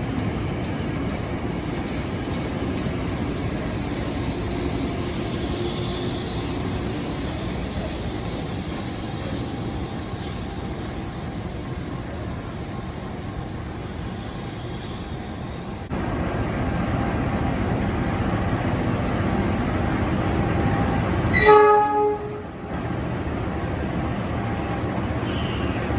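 Electric commuter train (former Tokyo Metro 6000 series) running through the station with a steady rumble and a high whine that fades after about six seconds. After a cut, a GE CC206 diesel-electric locomotive approaches and gives one short, loud horn blast about 21 seconds in, over the rumble of its engine and wheels.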